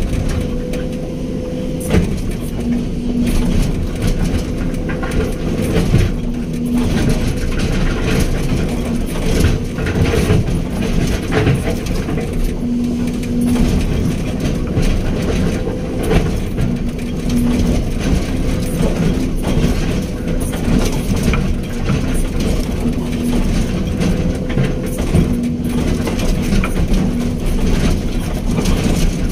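Hydraulic excavator's diesel engine running steadily under work, with frequent short knocks and clanks through it.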